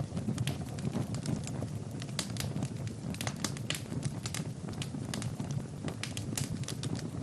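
Wood fire burning in a fireplace, crackling with frequent irregular sharp pops over a steady low rush of flame.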